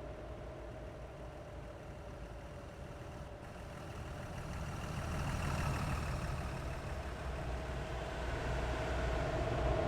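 Truck on a highway: a steady low engine rumble with a steady whine over it, growing louder about halfway through.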